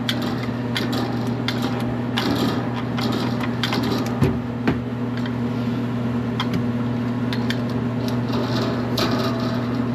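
Hand tools clicking and scraping on metal parts, with two sharper knocks about four seconds in, over a steady low hum.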